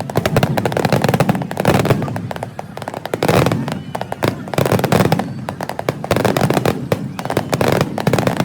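Fireworks going off in a dense, fast string of crackling pops and bangs.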